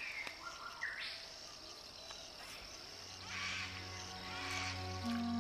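Insects chirping steadily in the evening, with a few short gliding bird calls early on. Soft ambient music with long held notes fades in about three seconds in.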